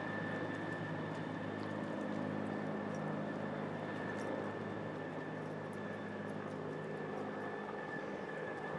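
Helicopter running steadily: a low hum with a thin, high whine held over it.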